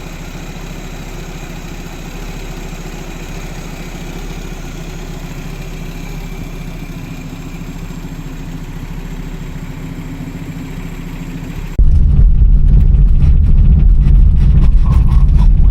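Car engine idling steadily; about twelve seconds in it becomes suddenly much louder and lower-heavy, as if the engine is now right beside the microphone or revving harder.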